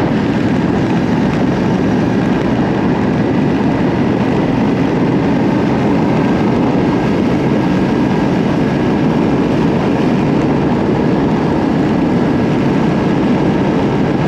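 Yamaha Ténéré 700's parallel-twin engine running at a steady, even pace while the motorcycle is ridden along.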